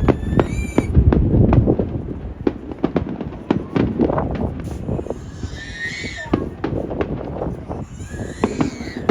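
Fireworks going off: a string of sharp bangs and crackles over deep low rumbling, with wind buffeting the phone's microphone. Crowd voices sit underneath.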